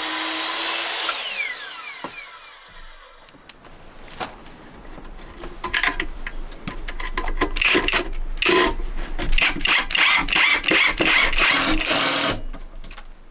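Power tool working on wood: a whir that winds down over the first couple of seconds, then from about three seconds in a busy rattling with many sharp knocks that stops suddenly near the end.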